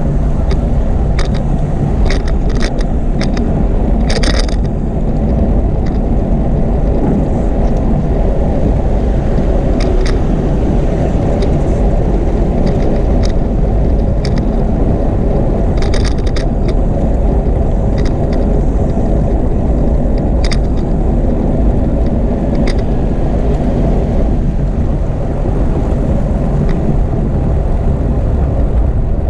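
Steady rumbling road and air noise from a moving bicycle ride. Scattered sharp clicks or rattles cut through it, several about a second to four seconds in and again around sixteen seconds.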